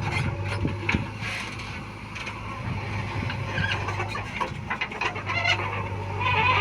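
Heavy diesel engine of mud-loading machinery running steadily with a low hum, with scattered knocks and rattles over it.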